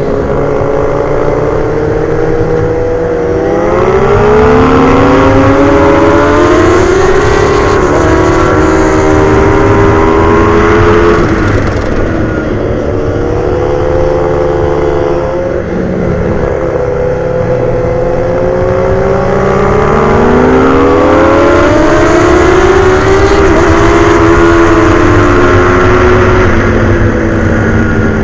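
Motorcycle engines at racing speed on a track, revving hard through the gears. The pitch climbs and drops again and again as the bikes accelerate out of corners and brake into the next.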